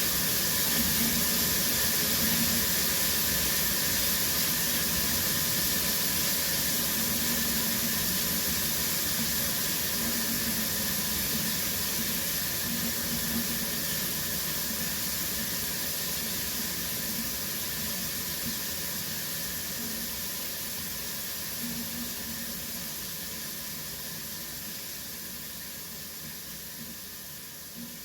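Shower water running in a steady hiss, gradually growing quieter throughout.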